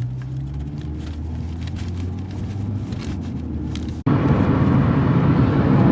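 Car engine running with road noise, heard from inside the moving car. About four seconds in, the sound cuts abruptly to louder, denser road noise.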